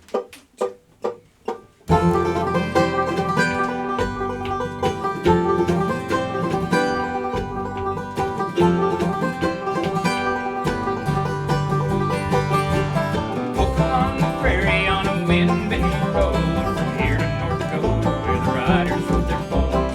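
Live bluegrass band playing the instrumental opening of a song, banjo to the fore: a few sparse plucked notes, then the full band comes in about two seconds in.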